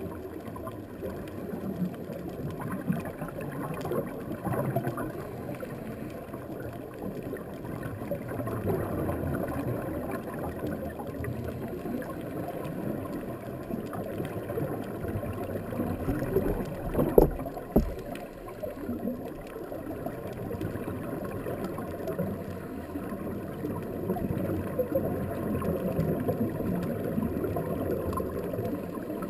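Underwater noise through a camera housing: low, gurgling rumble of a scuba diver's exhaled bubbles, swelling and fading every several seconds, with one sharper knock a little past halfway.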